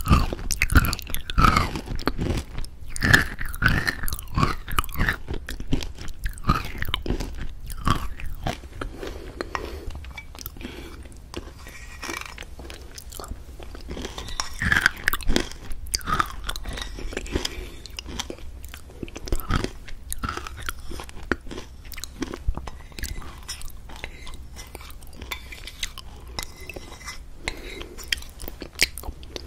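Close crunching and chewing: dense, irregular sharp crackles, loudest in the first few seconds and again around 15 and 20 seconds in.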